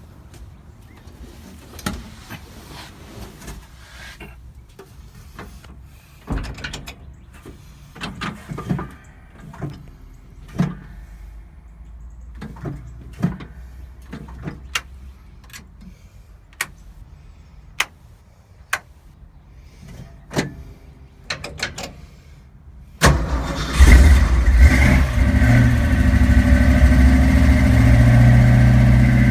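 1965 Ford Mustang engine starting cold: after a long stretch of scattered clicks and knocks, it starts suddenly about 23 seconds in, flares, then settles into a steady idle.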